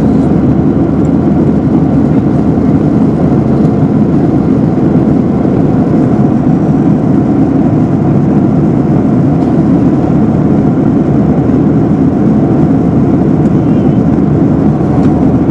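Steady engine and air noise heard inside a jet airliner's cabin, an even low rush with no changes.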